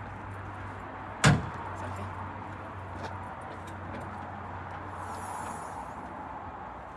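A single loud bang about a second in, over a steady low hum.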